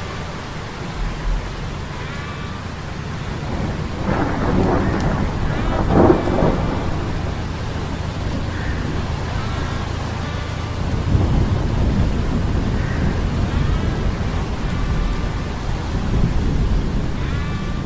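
Low steady hum of metal gears under storm sound effects: rain and rolling thunder, with a heavy thunder rumble swelling about four to six seconds in and another rise from about eleven seconds.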